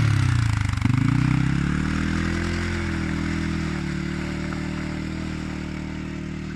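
Gladiator X450 quad bike's engine running; the revs drop in the first second, then pick up again and hold steady, slowly getting quieter toward the end.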